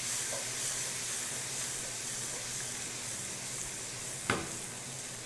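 Bacon, garlic, chili and cherry tomatoes sizzling steadily in olive oil and bacon fat in a frying pan as the pan is tossed. There is one sharp knock about four seconds in.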